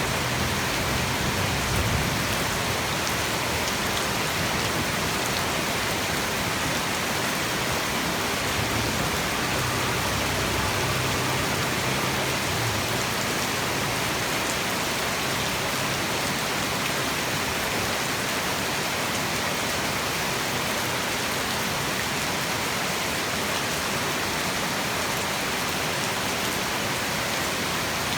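Heavy tropical rain falling steadily, a dense, even hiss of rain on surfaces.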